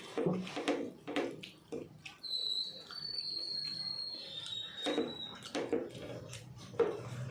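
Eating sounds: short clicks and chewing noises come in quick groups, and a thin, high, steady whistle-like tone lasts about three seconds in the middle.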